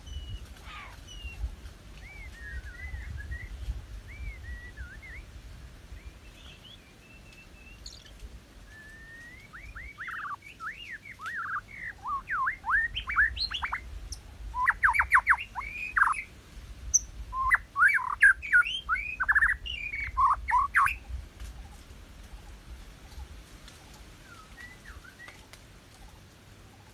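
A bird singing: a few scattered chirps and short whistled notes, then a loud, dense bout of rapid chirping notes sweeping up and down lasting about ten seconds, then a couple of faint notes near the end. A low rumble runs underneath.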